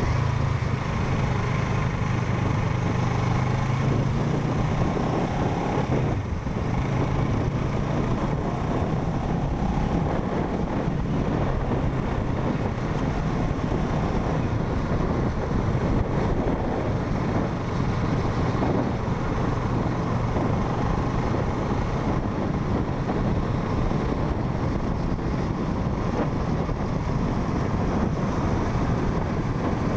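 Parallel-twin motorcycle engine running steadily while riding, with wind and road noise over the microphone.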